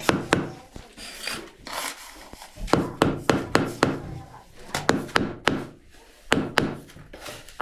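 Hand-tool work on building materials: sharp knocks, mostly in quick runs of three to five blows, with scraping and rubbing between them.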